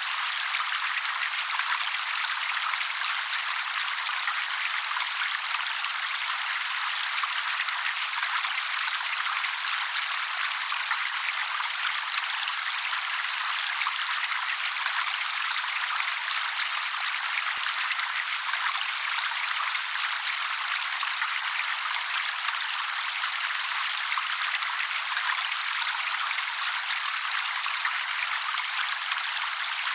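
Steady trickling water, the babbling-water sound laid under bird-mastering recordings; an even hiss with no low rumble and no birdsong.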